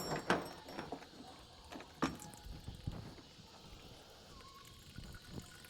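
A few scattered light knocks and clicks, a second or more apart, from parts and the disconnected fuel line being handled on a small Honda GX200 pump engine as its old fuel drains.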